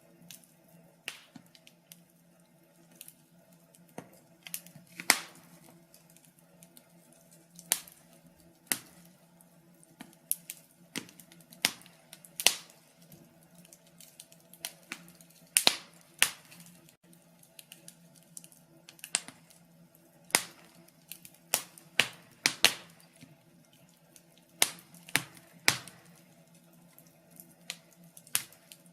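Wood fire in a fireplace crackling, with irregular sharp pops and snaps, some in quick clusters, over a faint steady low hum.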